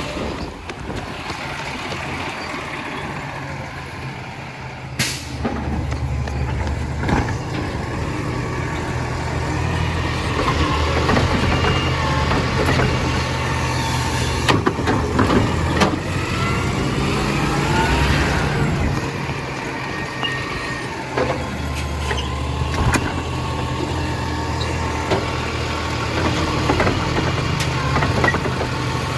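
Compost collection truck's engine running, its pitch and load rising and falling, with a short sharp noise about five seconds in.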